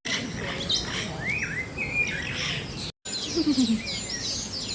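A chorus of many birds in an aviary, chirping and whistling in short gliding calls that overlap. The sound breaks off for an instant about three seconds in, after which the calls come thicker.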